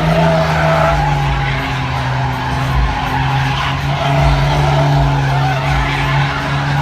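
A car's engine held at high, steady revs while its tyres spin and squeal against the pavement: a burnout.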